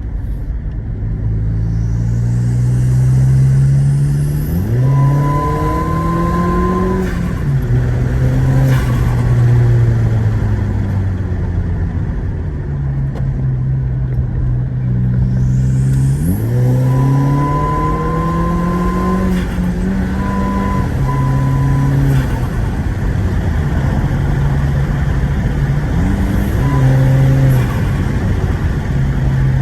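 Volkswagen Passat B7's turbocharged engine pulling hard twice, its note climbing steeply each time after a rising turbo whistle, with turbo flutter as the throttle is lifted.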